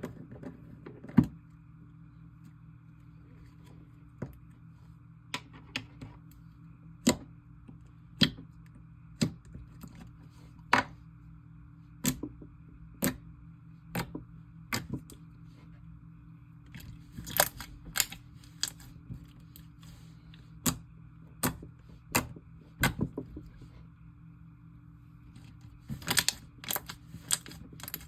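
Glossy slime being mixed by hand with clay, making sharp popping clicks about once a second, with quicker runs of pops about two-thirds of the way in and near the end.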